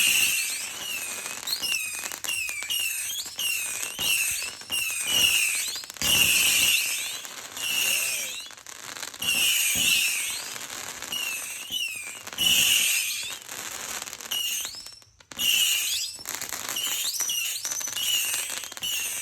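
Fireworks letting off a long string of whistles: short high shrieks that waver up and down, one or two a second, each with a hissing fizz, with scattered sharp cracks among them.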